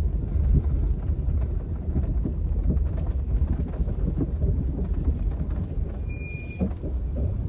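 Steady low rumble of a vehicle on the move, with a short high beep about six seconds in.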